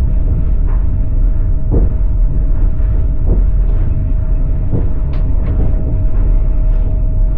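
Passenger train wheels clattering over rail joints, heard from inside the carriage: a steady low rumble with sharp knocks every second or so, two close together a little past the middle, and a faint steady tone underneath.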